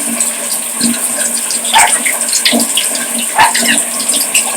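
Shower water spraying steadily, with a couple of brief louder bursts of sound partway through.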